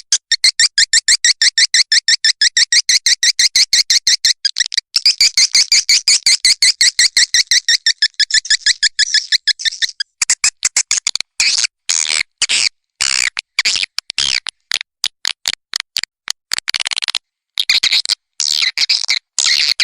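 Swiftlet lure call track: rapid, evenly repeated high-pitched twittering chirps, about five a second. After about ten seconds the chirps become choppy and irregular, with short gaps. It is the recorded sound farmers play to draw edible-nest swiftlets to roost and nest.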